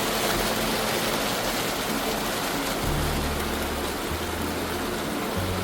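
Creek water rushing, a loud steady hiss, with low notes of background music held and changing underneath.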